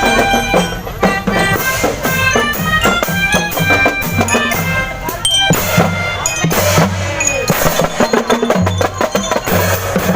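A marching drum band playing a tune: steady drum beats with bass drum under short, high, bright melody notes.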